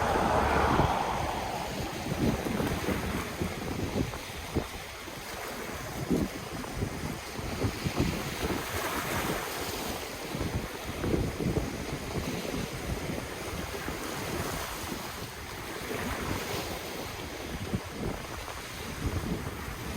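Ocean waves breaking and washing in, swelling a few times, with wind buffeting the microphone in short low gusts.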